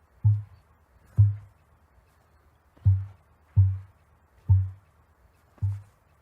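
A series of six short, low thuds at uneven intervals, each starting with a sharp click.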